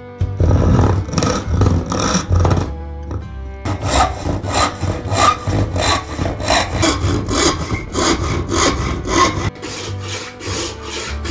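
Hand saw cutting wood in steady back-and-forth strokes, about three a second.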